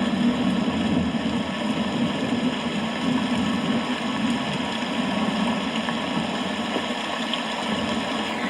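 Rain falling steadily, an even hiss and patter with no single loud crack of thunder.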